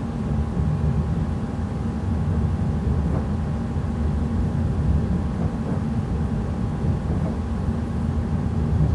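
Steady low rumble of a Class 345 electric multiple unit running along the track, heard inside the passenger saloon, with faint steady tones above it.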